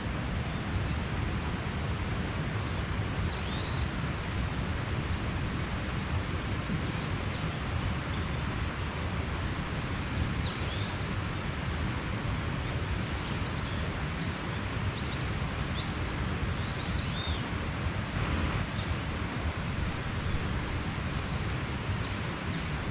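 A mountain stream rushing steadily, with small birds giving short, high chirps again and again over the water.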